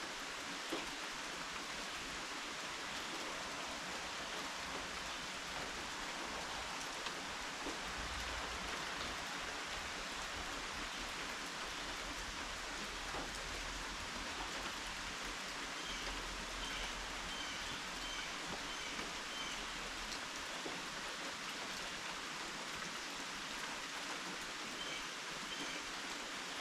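Steady rain falling, with scattered drips.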